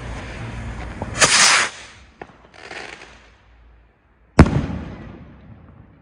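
ElGato K-20 Trueno volador firework: a loud hissing whoosh about a second in as it launches, then a single sharp bang a few seconds later that echoes away.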